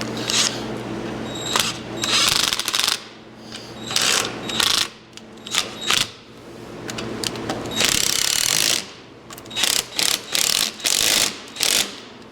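Hand ratchet wrench clicking in short runs of strokes, with pauses between runs, as nuts are tightened down.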